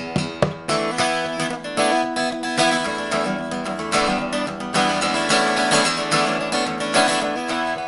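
Music: an acoustic guitar being strummed in an instrumental passage between sung lines.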